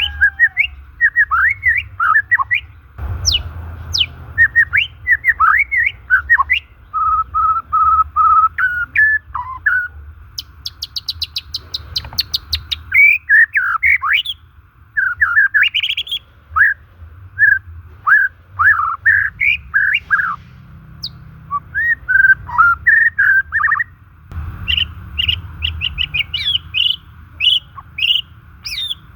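White-rumped shama (murai batu) singing a continuous, varied song of quick whistled notes and sweeping up-and-down glides, with a fast rattling trill about eleven seconds in.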